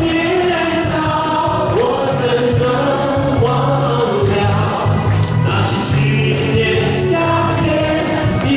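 Live band playing a Taiwanese folk-song (minge) medley with a steady drum beat and bass under a sung melody.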